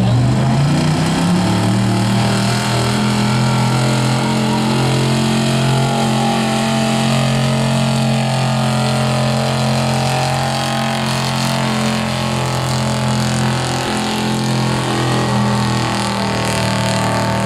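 A truck or tractor engine on a competition pull: it revs up over the first second or two, then is held at steady high revs under load as the sled is dragged down the track.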